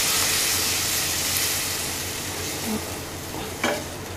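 Onion-tomato masala sizzling in a non-stick kadhai as it is stirred with a wooden spatula, just after a little water has gone in. The sizzle fades steadily, with a light knock of the spatula near the end.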